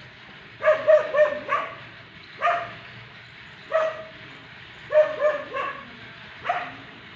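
A dog barking: about ten short, sharp barks, in quick runs of three or four about a second in and again about five seconds in, with single barks between.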